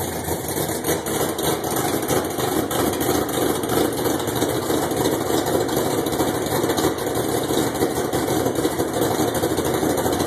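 1974 Chevy V8 on open headers with a Comp Cams Big Mutha Thumpr camshaft, idling with a choppy, uneven beat.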